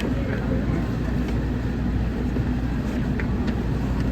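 Kita-Osaka Kyuko 9000 series electric train running, heard from inside the leading car: a steady low rumble with a few faint clicks.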